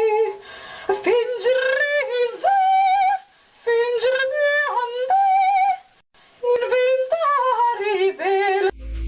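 A woman singing wordless held notes with vibrato, leaping up and down between low and high pitches in a yodel-like way, in three phrases with short breaks. Electronic music with a heavy bass starts right at the end.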